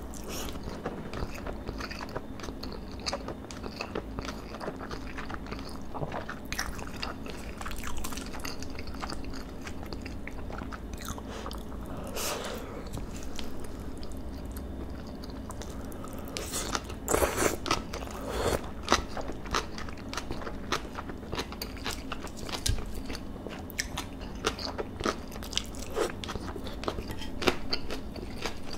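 Close-miked eating sounds: wet chewing of rice and soy-marinated beef bulgogi, soft crunches and small clicks of chopsticks. The mouth sounds come in louder clusters about twelve seconds in and again around seventeen to nineteen seconds.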